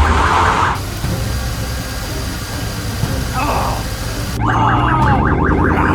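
Cartoon warbling alarm sound effect: quick repeated rising sweeps like a car alarm. It stops about a second in, gives way to a hissing noise, and starts again about four and a half seconds in over a low steady drone.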